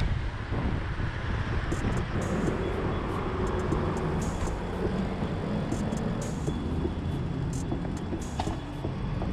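Steady road and traffic noise with a low wind rumble, with scattered faint high clicks.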